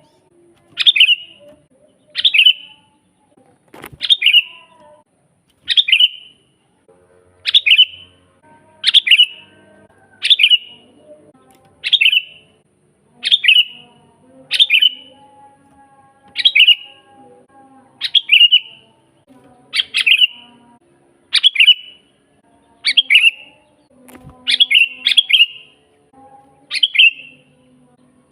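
Sooty-headed bulbul calling over and over, a short sharp note that drops in pitch, repeated about every one and a half seconds, with a quick double call near the end.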